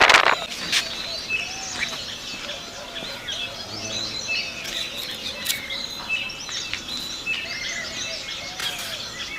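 Many small birds chirping and twittering continuously, with a few sharp clicks among them. A short, loud rasping noise comes right at the start.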